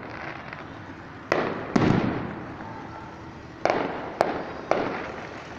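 Aerial fireworks bursting overhead: about five sharp bangs a second or so apart, each trailing off in a rolling echo, the loudest and deepest a little under two seconds in.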